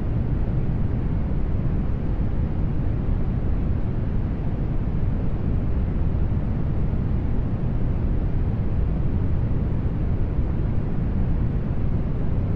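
Brown noise: a steady, deep rushing hiss with most of its energy in the bass, fading off toward the treble, unchanging throughout.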